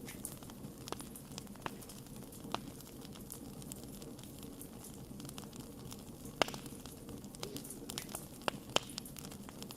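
Wood campfire burning with a low steady rush and irregular crackles and pops. The sharpest snaps come about six and a half seconds in and twice near the end.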